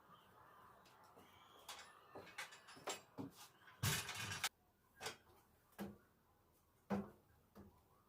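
Household objects being handled: a scatter of light knocks and clicks, with a brief swish about four seconds in.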